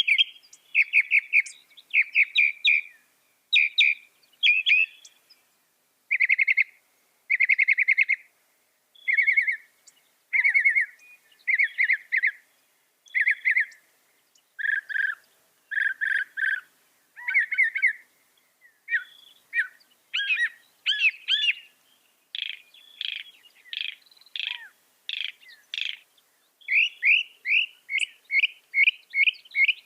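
Mockingbird singing: a long run of short phrases, each a quick string of repeated chirping notes, with the note type changing from one phrase to the next every second or so.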